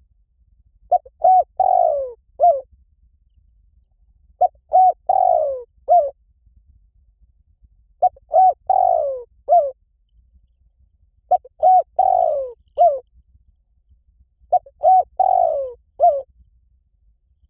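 Spotted dove cooing: five identical phrases, one about every three and a half seconds. Each phrase is a few quick short coos, then a longer coo falling in pitch, then one short closing coo.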